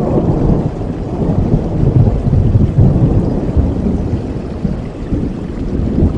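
Rain with a low rolling rumble of thunder, the rumble swelling about two to three seconds in.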